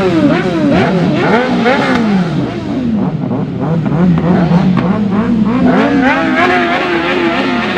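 Several sport motorcycle engines revving at once, their pitches rising and falling and crossing one another. After a steadier stretch in the middle, one engine climbs in revs and holds.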